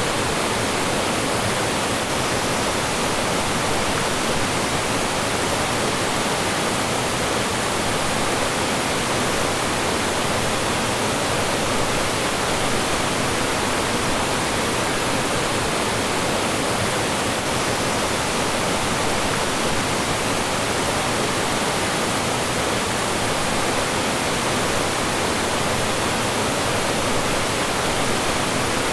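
Mountain stream rushing and splashing over rocks in a steady, even roar of flowing and falling water.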